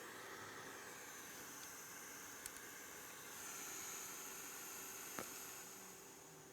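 Faint steady hiss of background room noise, with a faint click about two and a half seconds in and another about five seconds in.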